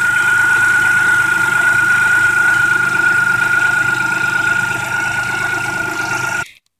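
1994 Geo Metro three-cylinder engine idling steadily as it warms up, with a steady high whine over the running. The sound cuts off abruptly near the end.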